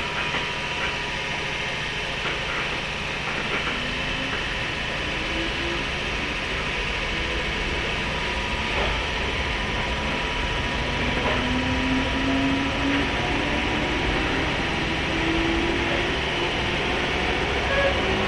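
103-series electric train motor car running, its MT55 traction motors giving a whine that climbs slowly in pitch several times over a steady rolling roar. A few sharp clicks from the wheels passing over rail joints.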